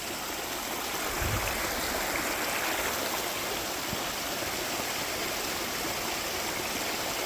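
Steady rushing noise, with a brief low thump about a second in.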